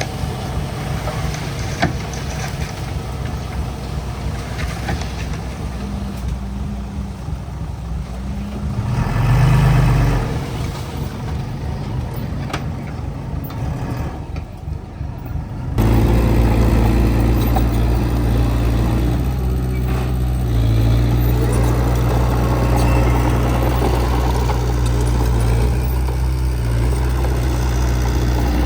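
Diesel engine of heavy earthmoving equipment running, with a brief swell in level about nine seconds in. About sixteen seconds in the sound changes abruptly to a louder, deeper engine drone.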